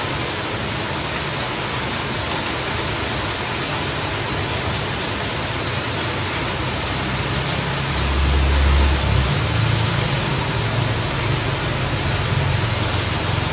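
Steady hiss of heavy rain, with a low rumble about eight seconds in.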